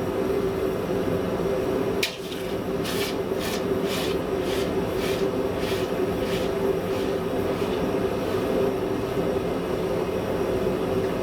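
Steady drone of a running forge, with a sharp click about two seconds in followed by about eight rhythmic high-pitched scraping strokes, roughly two a second, that fade out.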